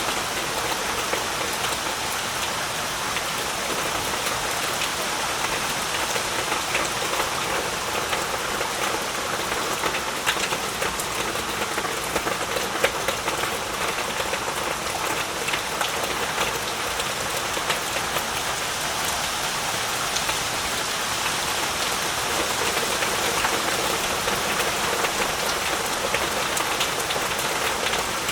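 Heavy rain falling steadily, a dense even hiss with many fine drop patters.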